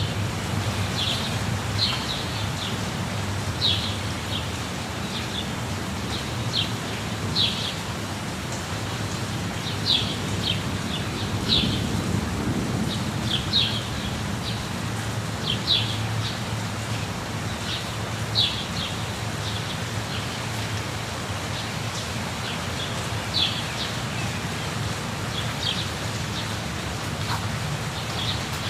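Waterfall rushing steadily with a low rumble, while small birds give short, high chirps every second or so at irregular intervals.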